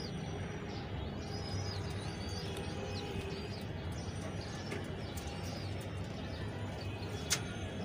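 Birds chirping: short, high, arched chirps, about one or two a second, over a steady low hum, with a single sharp click near the end.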